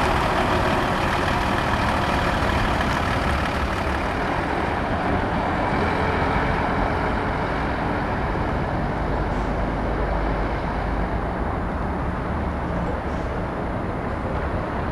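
Heavy diesel truck engine running close by. Its higher-pitched noise fades after a few seconds while the low rumble carries on.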